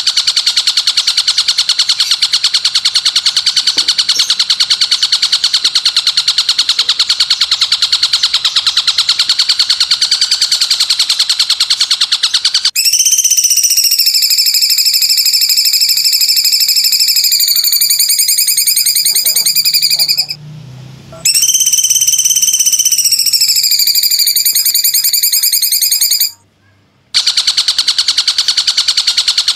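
Recorded songbird calls of the kind played to train cage birds. A very fast, buzzing trill runs for about thirteen seconds. It is followed by a long, high, steady call that dips slightly in pitch, breaks off briefly partway through, then stops abruptly, and the fast trill starts again near the end.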